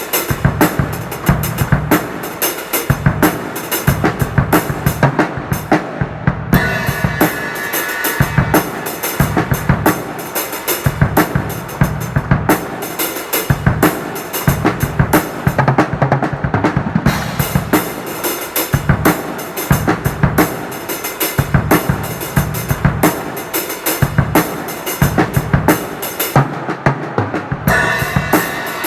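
A cheap, poor-sounding drum kit played hard in a steady groove. Bass drum, snare and rimshot strokes run throughout, broken by fills.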